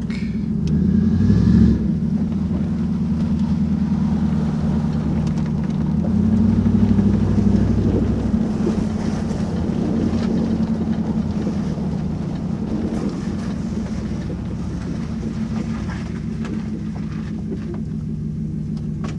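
1993 Pontiac Trans Am's LT1 V8 engine running as the car is driven at low speed, heard from inside the car. It swells louder twice under throttle, about a second in and again around six to eight seconds in, then settles back to a steady lower run.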